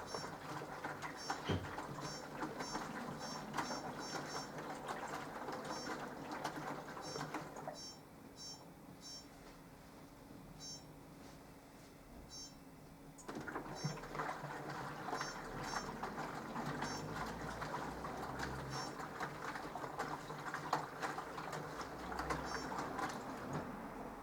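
Minicolo mini washing machine washing: the drum agitates with water swishing for about seven seconds, pauses for about six seconds, then starts agitating again, as in a gentle wash cycle. Faint short high-pitched tones repeat throughout.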